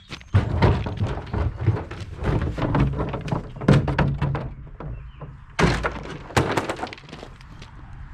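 Hard HDPE plastic parts of a porta-potty seat assembly knocking and cracking as they are worked loose. A rapid run of knocks and clicks is followed by two loud bangs about two-thirds of the way through.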